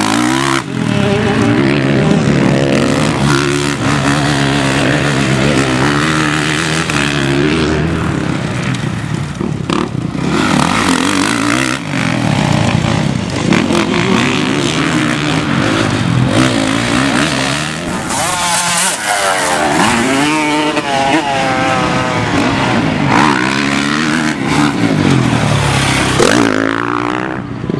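Motocross dirt bike engines revving hard, their pitch climbing and dropping over and over as the bikes ride the track.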